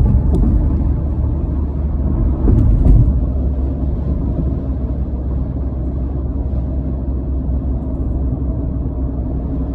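Steady low rumble of a car driving, road and engine noise heard from inside the cabin, swelling briefly about three seconds in.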